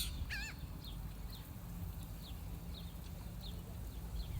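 Birds calling: a brief wavering call at the start, then a small bird repeating short, high, falling chirps about every half second, over a steady low rumble.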